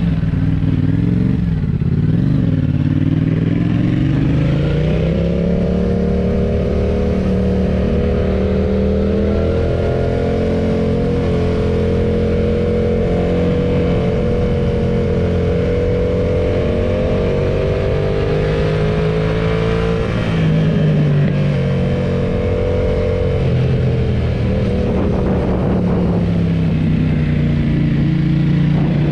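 Yamaha MT-07's 689 cc parallel-twin engine, breathing through a Roadsitalia Double Fire titanium aftermarket exhaust, running under load. Its note climbs a few seconds in, holds fairly steady, drops off about two-thirds of the way through, then climbs again near the end.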